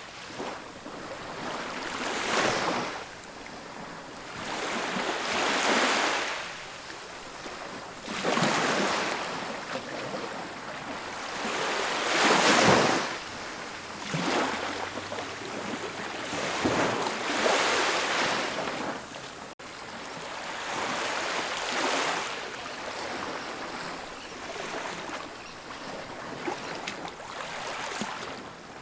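Ocean waves breaking on a beach, each wash swelling and fading about every three to four seconds, with the strongest break about twelve seconds in.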